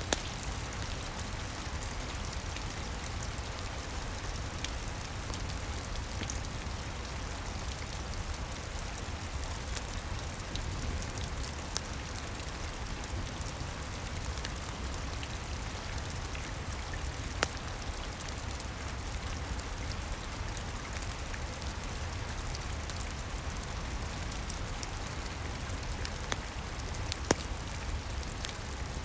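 Steady rain falling, an even hiss with a low rumble beneath it, and now and then a sharp pop from a crackling wood fire, the loudest two just past the middle and near the end.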